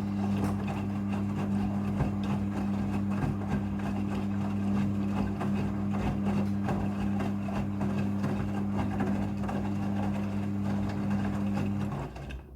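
Front-loading washing machine running during a rinse cycle: a steady hum with rattling and clicking, which cuts off suddenly near the end.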